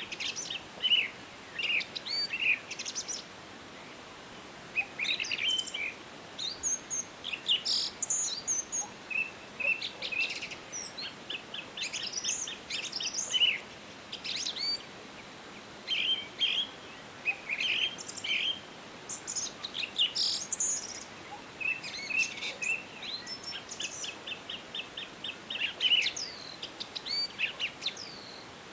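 Several songbirds singing and calling in a forest, short chirps, whistled notes and rapid trills following and overlapping one another, over a faint steady hiss.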